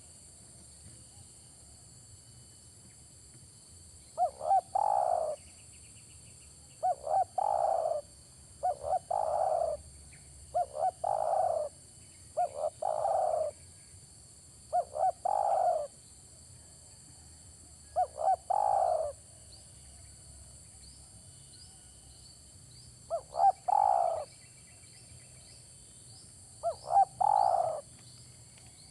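Spotted dove (tekukur) cooing: a phrase of two short notes running into a longer coo, repeated about nine times roughly every two seconds, with a longer pause before the last two.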